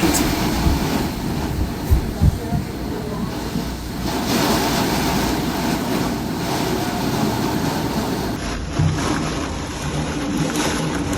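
Steady rushing storm noise of wind and heavy rain, with a few low gusts buffeting the microphone. The sound shifts abruptly about eight seconds in.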